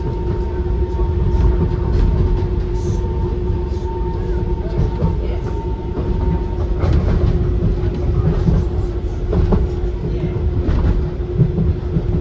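Docklands Light Railway B92-stock train running along the line, heard from inside the car: a loud, steady low rumble with a constant hum and a few short clicks from the wheels on the track. A higher steady tone in the hum stops about seven seconds in.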